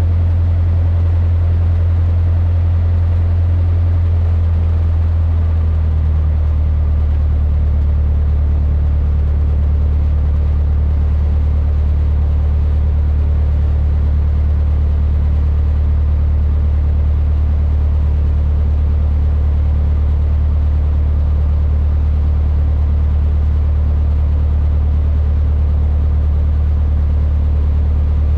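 Cessna 152's four-cylinder Lycoming O-235 engine and propeller running steadily. Its low note drops a step about six seconds in as power comes back, then holds even.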